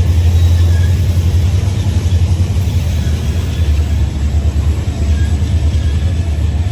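Freight train rolling past with a steady low rumble of wheels on rail, and faint thin squeals from the wheels now and then.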